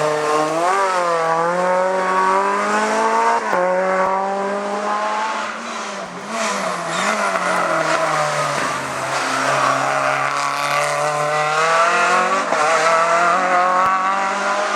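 Race car engine under hard throttle, its pitch climbing and dropping sharply at a gear change about three and a half seconds in. Around the middle it falls lower, as when slowing for a corner, then climbs again through further shifts.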